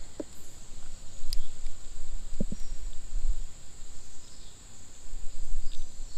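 Steady high-pitched insect buzz, crickets or cicadas, over a low rumble, with a few faint clicks.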